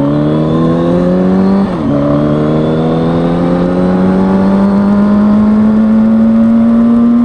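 2003 Kawasaki ZX-6R 636's inline-four engine pulling under acceleration, its pitch rising steadily. It shifts up about two seconds in, the revs dropping briefly, then climbs slowly again.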